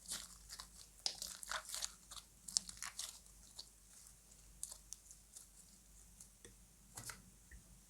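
Slime being squished and mixed by hand, giving clusters of small sharp crackles and pops, densest in the first three seconds and sparser after.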